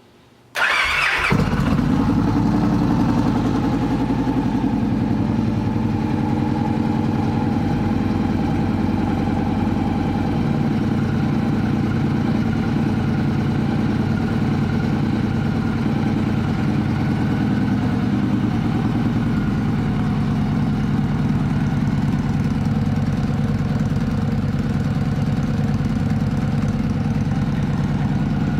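2014 Victory Cross Country's Freedom 106 V-twin started with the electric starter: a brief crank about half a second in, the engine catching within a second, then idling steadily.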